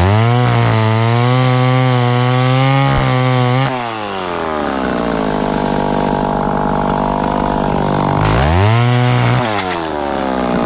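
Two-stroke chainsaw revved up to high speed, held there for a few seconds, then dropping to a lower, steady engine speed. Near the end it is revved up again briefly and falls back.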